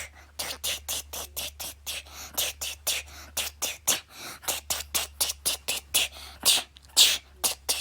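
A person beatboxing: a rapid run of short, sharp hissing mouth-percussion hits, about four or five a second, over a steady low hum.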